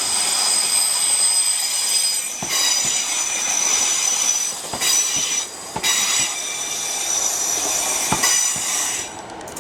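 A Class 150 diesel multiple unit arriving at the platform, its wheels squealing high-pitched on the rails: several steady squeal tones break off and come back a few times before dying away near the end.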